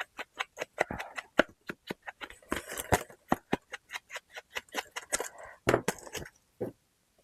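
Quick light taps and clicks, several a second, mixed with rustling of paper and small objects being handled on a craft desk.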